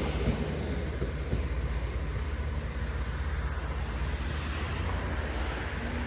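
Departing Great Western Railway diesel multiple unit: a steady low diesel engine drone, easing off slightly in loudness as the train pulls away.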